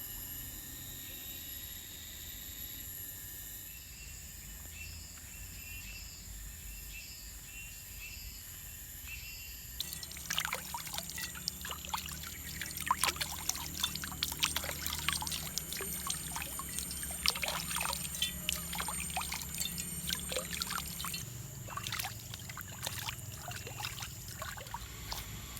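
Rainforest insects trilling steadily, with a short chirping call repeated about once a second in the first several seconds. About ten seconds in, a dense run of irregular crackling and splashing begins, like liquid being poured or trickling.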